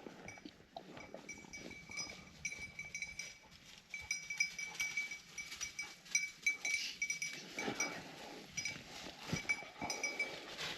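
A small bell jingling in irregular bursts at one fixed ringing pitch, typical of a hunting dog's collar bell as the dog moves about, with light rustling of dry leaves.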